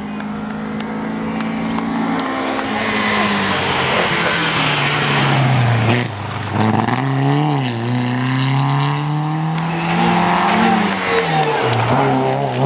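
Rally car engine at high revs growing louder as the car approaches, its pitch dropping sharply on a lift or gearshift about six seconds in, then climbing again and dipping once more near the end.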